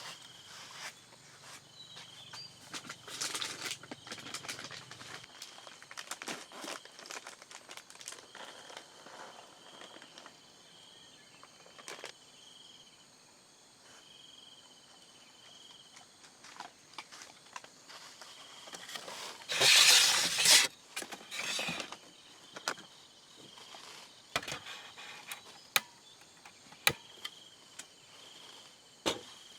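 Intermittent rustling and handling noises with sharp clicks, loudest in a brief burst about two-thirds of the way through, over a steady chirping insect trill.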